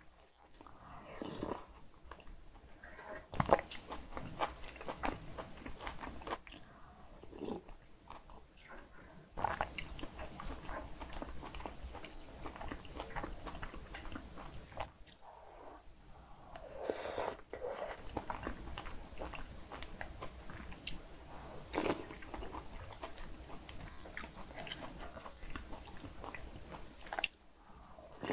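Close-miked chewing and biting of bibimbap with cockles and radish salad and of kimchi soft tofu stew, wet and irregular, with a few sharp clicks, the loudest about three seconds in.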